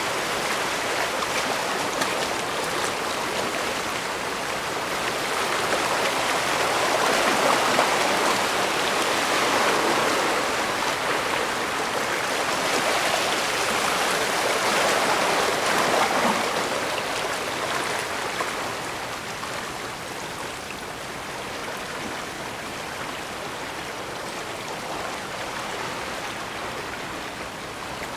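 Bay water washing and lapping against the shore in a steady wash, swelling louder twice in the first half and easing off in the second half.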